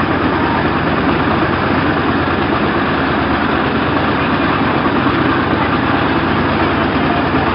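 Diesel engine of a motorboat running steadily, a continuous low drone with no change in speed.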